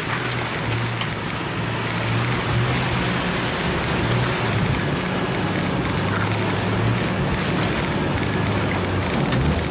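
Jeep Cherokee XJ engine running at low revs while crawling over a rutted off-road track, heard from inside the cabin, its pitch shifting a little, with light knocks and rattles throughout.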